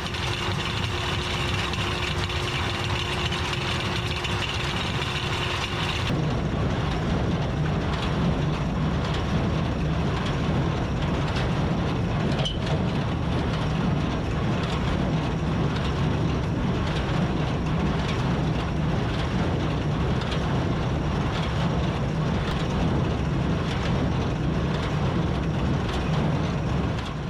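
Tractor and a New Holland Super Hayliner 78 wire-tie square baler running while baling hay: a steady, loud mechanical clatter. About six seconds in, the sound changes and the low rumble gets heavier, with regular faint knocks.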